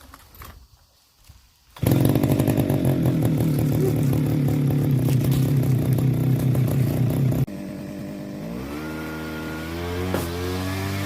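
Zenoah brush cutter's small two-stroke engine running fast, coming in abruptly about two seconds in. Past the middle it drops suddenly to a lower, quieter running, then its pitch rises as it revs up again.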